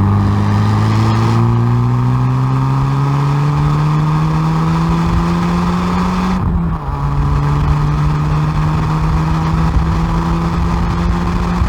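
Hyundai i30N Performance's turbocharged four-cylinder exhaust under full acceleration on track, pitch climbing steadily through a gear. About six and a half seconds in, the revs drop sharply on an upshift, then climb again in the next gear.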